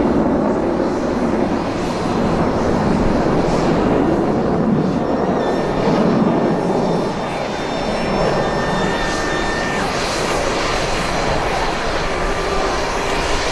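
Blue Angels jet aircraft flying at an airshow: a loud, continuous jet roar that dips slightly about seven seconds in and grows hissier later on.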